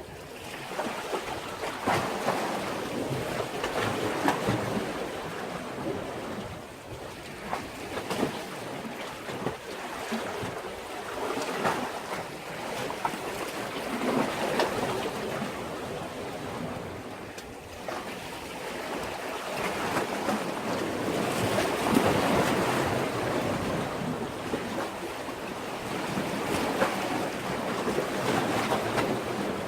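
Sea waves washing in against a breakwater, the surf swelling and ebbing every few seconds with short sharp splashes.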